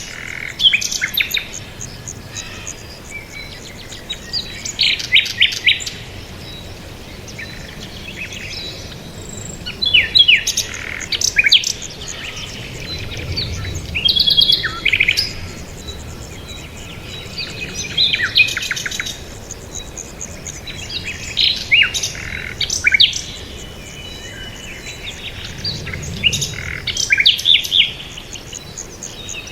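Small songbirds chirping and calling, in quick runs of short high notes that come in clusters every few seconds and overlap one another.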